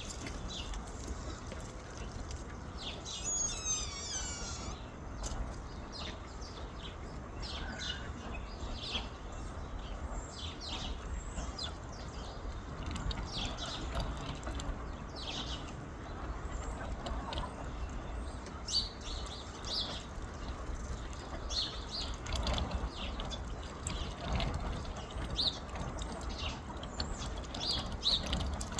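Birds chirping: many short, scattered high chirps, with a brief warbling song about three seconds in, over a steady low rumble.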